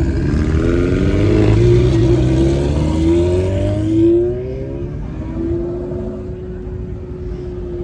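A car engine accelerating hard, its pitch rising in several sweeps as it pulls through the gears, loudest about four seconds in. It then settles into a steady drone.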